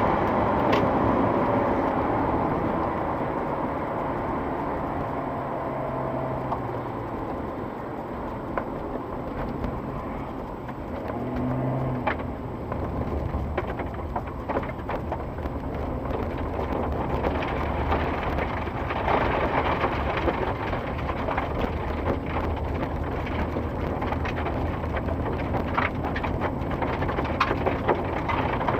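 Vehicle engines at road works: a loud passing engine noise that fades over the first ten seconds, then a low steady engine running with many scattered crackles and ticks.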